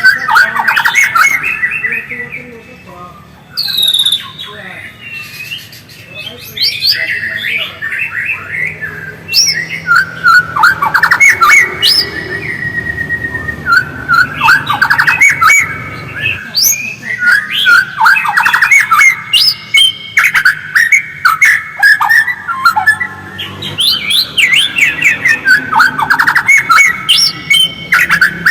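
White-rumped shama (murai batu) singing in a rapid twittering chatter of chirps and trills, with sharp clicks mixed in, almost without pause.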